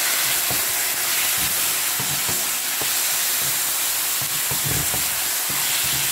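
Sliced raw chicken breast sizzling steadily in hot oil with sautéed onions and garlic, stirred with a wooden spatula that scrapes the pan now and then.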